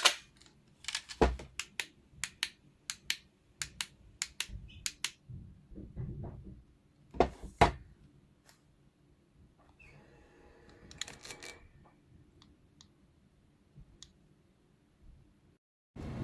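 A series of irregular sharp clicks and light knocks, loudest near the start and about seven seconds in, with a faint steady hum under more clicks between about ten and twelve seconds in.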